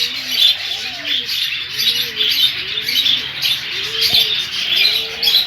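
A room of caged small birds, lovebirds among them, chirping and chattering without a break, with pigeons cooing underneath in low calls that rise and fall, repeated every second or so.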